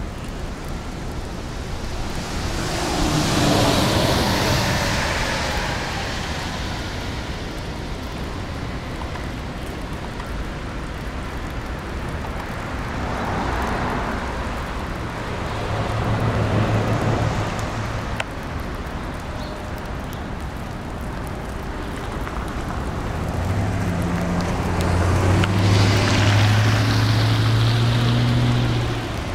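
Cars passing on a wet, slushy street, their tyre hiss swelling and fading about four times, with a low engine hum under the later passes.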